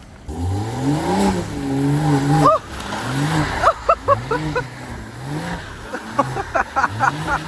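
BMW M340i's turbocharged inline-six, fitted with a catless downpipe, revving up and falling back over and over, about once a second, as the car is slid in circles.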